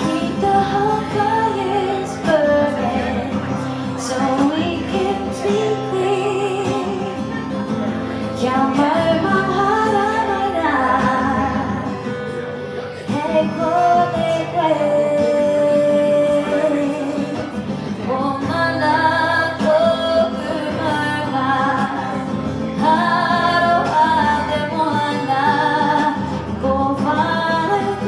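A woman singing a song live in a melodic, sustained style over steady instrumental accompaniment.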